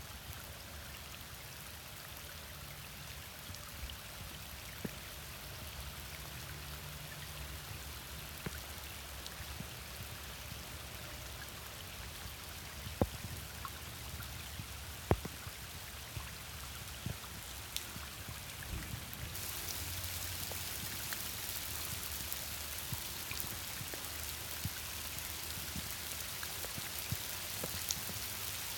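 Rain falling steadily, with scattered sharp hits of single drops on nearby surfaces. The rain grows louder about two-thirds of the way through.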